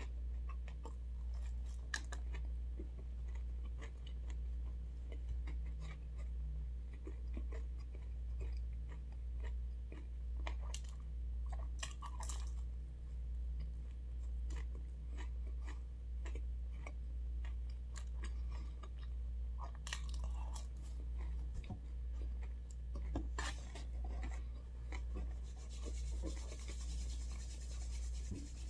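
Chewing and crunching on a pizza crust, with small scattered crunches and mouth clicks, over a steady low hum.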